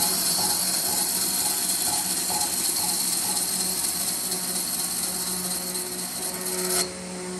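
A workshop power tool running steadily with a strong high hiss over a low hum, switched off suddenly about seven seconds in.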